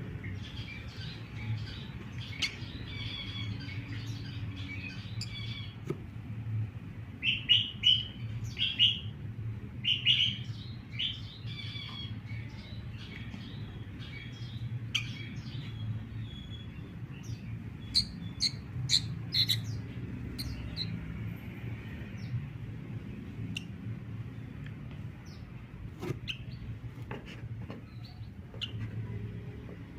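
Sooty-headed bulbul chirping in short, high calls, most of them about seven to eleven seconds in and again around eighteen to twenty seconds, over a steady low hum.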